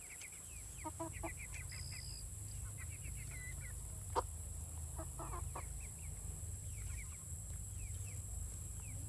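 A flock of young barnyard-mix chickens chirping and clucking: a run of short, high chirps with a few lower clucks among them. A single sharp tap about four seconds in.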